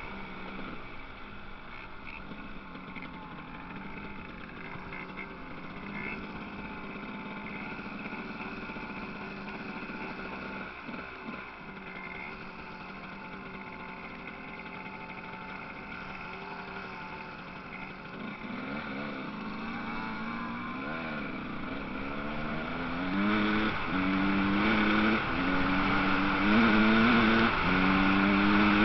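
Motocross bikes racing, their engines whining from a distance. In the last third one bike comes closer and gets louder, revving up through the gears with repeated stepped rises in pitch.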